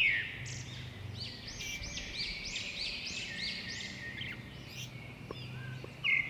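Lutino budgerigar chirping and chattering, with a quick run of repeated rising-and-falling chirps, about three a second, through the middle. A faint steady low hum runs underneath.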